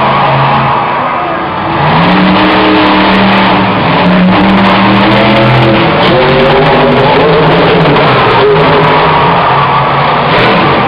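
Monster truck engine running loud and revving, its pitch climbing and dropping with the throttle.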